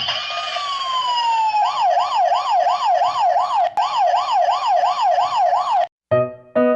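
Emergency siren: a tone gliding down, then a fast up-and-down wail, about two to three cycles a second, that cuts off suddenly about six seconds in. Piano music starts just after.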